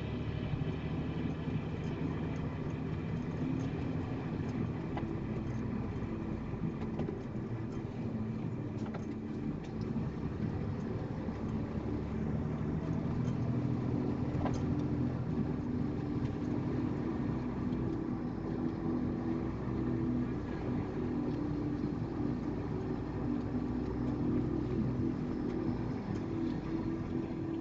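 A motor vehicle engine running steadily: a low rumble with a steady hum that shifts slightly in pitch.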